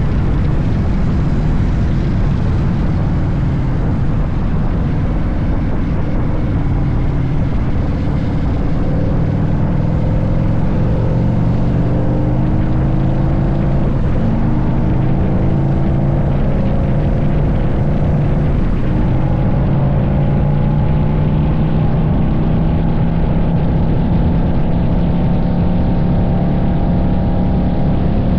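Harley-Davidson V-twin motorcycle engine running at road speed under heavy wind noise. The engine's pitch rises and falls with the throttle through the second half.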